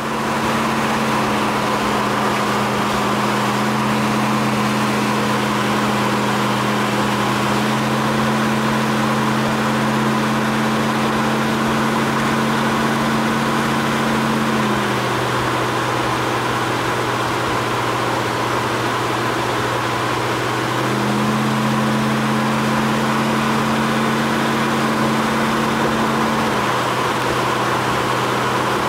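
The 1968 Pontiac GTO's 461-cubic-inch stroker V8 cruising at a steady speed, heard from inside the car: a steady engine drone over road and wind noise. One part of the note drops away about halfway through and comes back some six seconds later.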